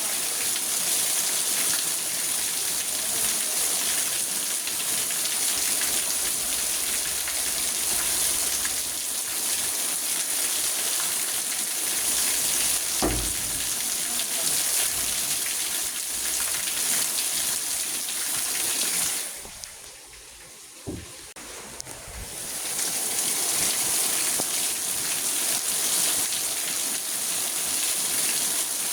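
Steady heavy rain on a car, a dense hiss of drops on the roof and glass heard from inside the car. Two-thirds of the way through, the rain sound drops away for about three seconds and then comes back. There are a couple of dull low thuds, one near the middle and one during the lull.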